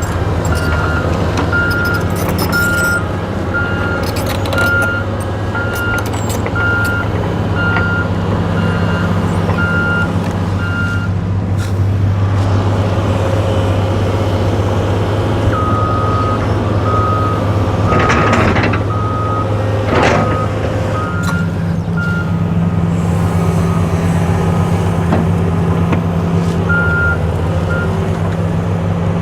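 Diesel heavy machinery running steadily with backup alarms beeping about one and a half times a second. One alarm sounds for roughly the first third, then a second, lower-pitched one comes in about halfway through. Two short hisses come near the two-thirds mark.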